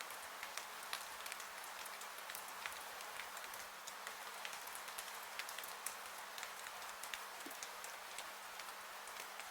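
Steady rainfall: an even hiss with many individual raindrops ticking sharply through it.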